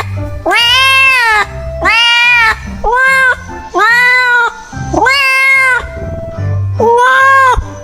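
A domestic cat meowing over and over, about six long meows that rise and fall in pitch, roughly one a second, with background music carrying a low beat underneath.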